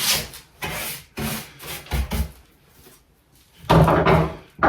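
Wood being worked by hand with short back-and-forth rasping strokes, about two a second, stopping about two seconds in. Near the end comes a louder, heavier wooden scrape.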